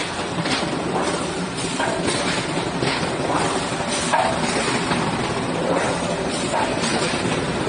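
Factory machinery running steadily, with irregular knocks and clanks throughout.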